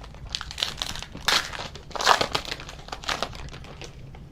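Wrapper of a Donruss football trading-card pack being torn open and crinkled in the hands: a run of irregular crackles, loudest in two bursts about a second and two seconds in.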